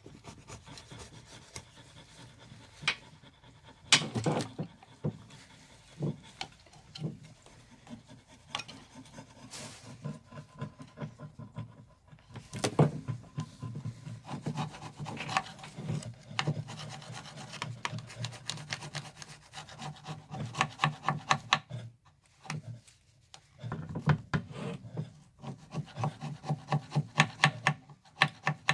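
Hand scraping or filing on engine parts: runs of quick back-and-forth strokes, several a second, with a few sharp knocks between them.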